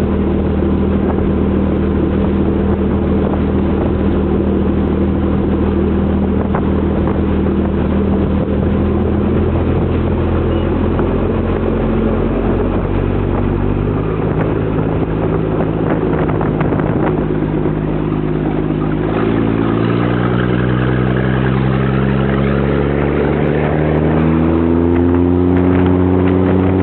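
Small ferry boat's engine running under way with water noise, its pitch steady at first, then climbing steadily through the second half as the boat speeds up.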